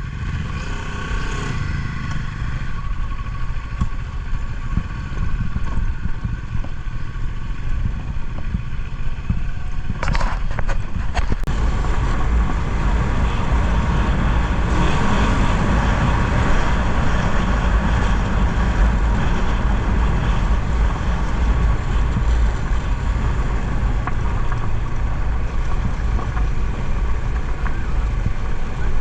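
Adventure motorcycle engine running while riding, with a heavy low rumble. A few sharp knocks come about ten seconds in, and then the engine grows louder and stays that way.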